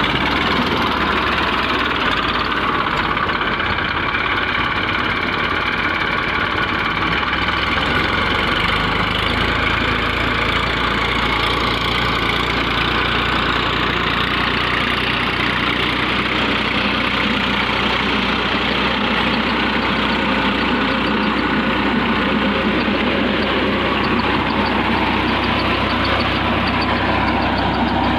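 New Holland 3230 tractor's three-cylinder diesel engine running steadily and loud, with no change in pace.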